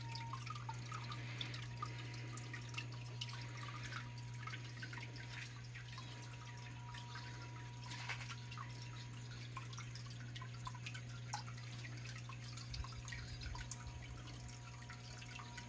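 Small garden waterfall in a biotope pond: water trickling and splashing steadily, full of small irregular drips, over a steady low hum.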